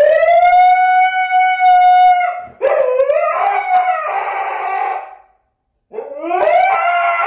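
Dog howling: a long call that rises and then holds steady, a second, rougher howl, and after a brief silence a third howl that rises near the end.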